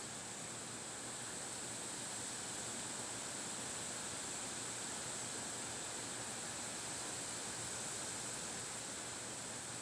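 Wind blowing steadily: an even, unbroken hiss with no gusts or breaks.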